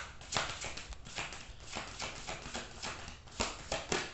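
Irregular light taps and clicks, several a second, with a few sharper ones, from tarot cards being handled and laid on a table.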